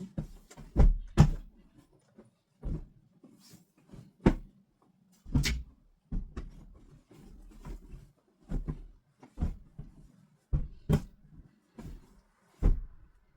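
A string of about fifteen irregular knocks and bumps from household objects being handled and set down, some sharp, a few heavier thuds, with short gaps between.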